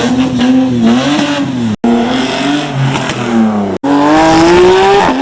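Car engines revving hard, heard in three short clips cut back to back; in the last one the engine note climbs steadily.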